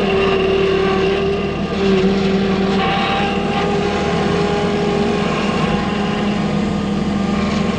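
Wheeled skid steer's diesel engine running steadily, with a short dip and wobble in pitch about two seconds in, as the machine works in soft, rain-soaked ground.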